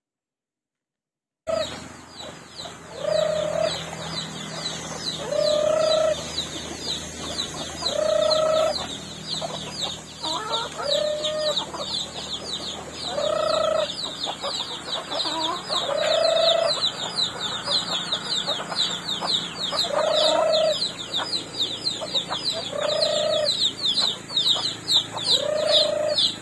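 A chicken calling with a short note repeated about every two to three seconds, over a fast, continuous high-pitched chirring. The sound starts about a second and a half in.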